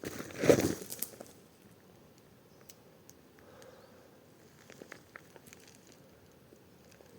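Rustling and crackling, with one loud burst about half a second in, then a few faint snaps and clicks.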